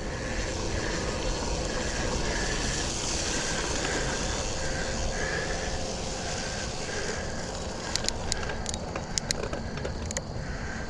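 Specialized Sirrus X bicycle rolling over a wet, muddy trail: a steady rush of tyre and wind noise, with a few sharp clicks and knocks about eight to ten seconds in.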